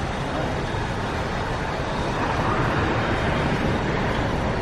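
Steady motor vehicle noise, a low rumble under a continuous hiss, growing slightly louder.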